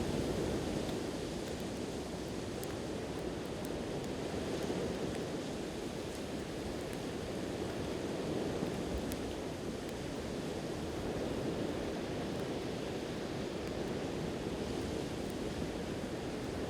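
Sea waves washing onto the shore in slow swells, with a few faint, sharp crackles from a wood campfire.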